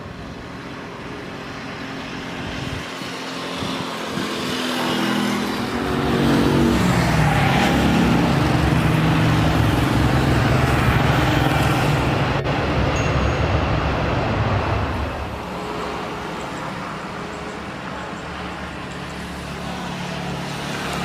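A large jet cargo aircraft passing close overhead on its landing approach. The engine roar builds up, the engine tones fall in pitch as it goes by, and the noise stays loud for several seconds before fading.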